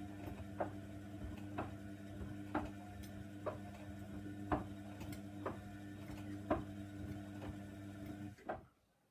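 Hoover Nextra washer dryer's drum motor humming as the drum turns during the wash, with a light knock about once a second as the load tumbles. Near the end the motor cuts off suddenly with a final clunk, a pause in the wash tumble.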